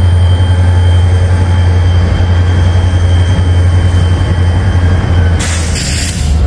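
BNSF diesel freight locomotive crossing a steel trestle overhead, a loud steady low drone with a thin high tone above it. A loud hiss comes in about five seconds in.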